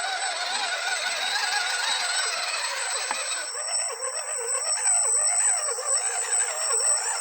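Radio-controlled off-road crawler's electric motor and gearbox whining, the pitch rising and falling with the throttle, over a steady thin high whine.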